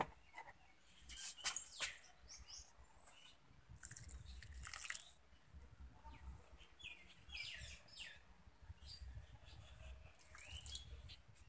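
Small birds chirping now and then in short, high calls, some rising quickly in pitch, over a low rumble.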